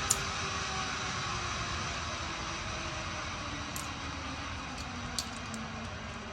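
Steady rushing noise of a zip-line ride: wind and the trolley running along the cable. There is a sharp click just after the start and a few fainter clicks near the end.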